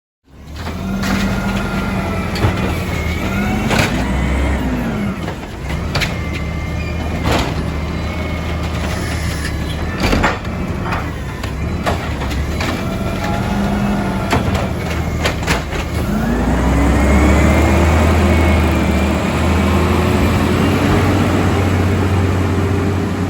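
Garbage truck engine running, with repeated metal clanks and knocks; about sixteen seconds in the engine revs up, rising in pitch, and holds there louder.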